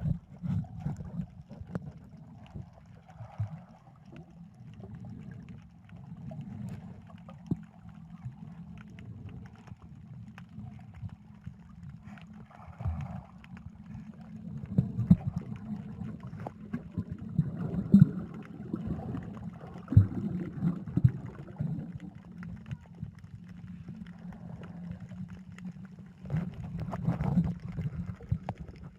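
Muffled underwater sound: a low, churning rumble of water moving around the microphone, rising and falling in swells, with scattered small clicks.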